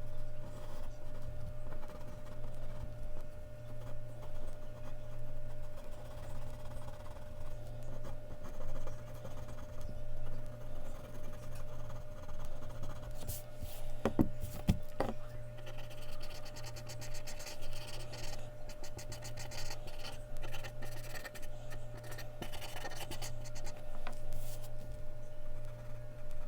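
Mechanical pencil scratching across Bristol paper in drawing strokes, over a steady low hum. There are a couple of sharp clicks about halfway through, and the strokes grow quicker and denser after that.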